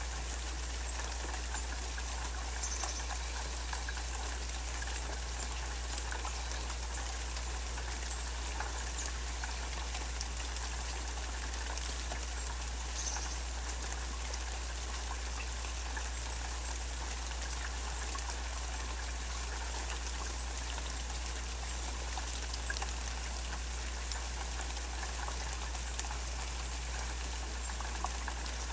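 Steady rain falling, with scattered drips and one sharp tap about two and a half seconds in.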